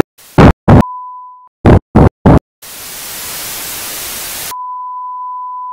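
Edited glitch-style ending: a quick string of short, very loud clipped bursts and a brief beep, then about two seconds of static hiss that cuts off suddenly into a steady, even beep tone.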